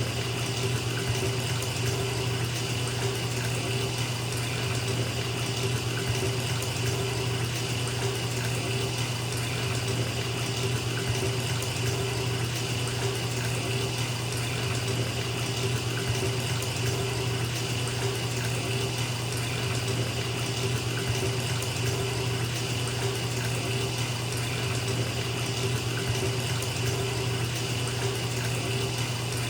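Bathtub tap running steadily, water pouring into a filling tub with an even rushing sound and a low hum.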